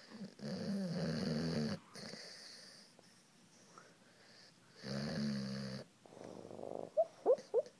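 White boxer dog making two long snore-like rumbling breaths a few seconds apart, then a quick run of short, high squeaky whimpers near the end.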